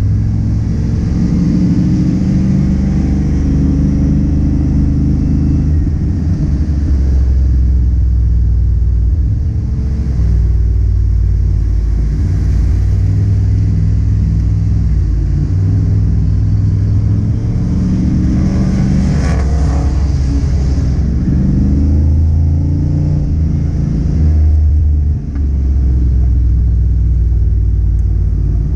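Car engine running hard and continuously, its low pitch stepping up and down as it accelerates and shifts. About two-thirds of the way through there is a louder rev that rises and falls.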